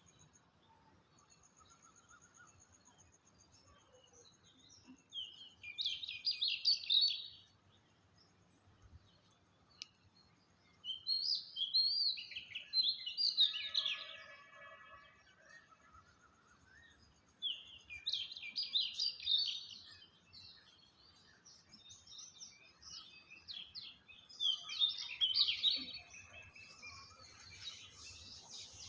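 A songbird singing in four separate bursts of rapid, jumbled warbling phrases, each lasting about one to three seconds, with quiet gaps of several seconds between them.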